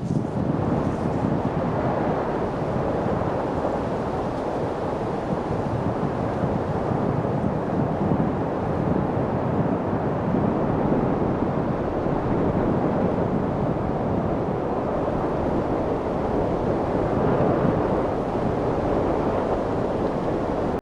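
Light wind blowing steadily, a low rushing noise that swells and eases gently.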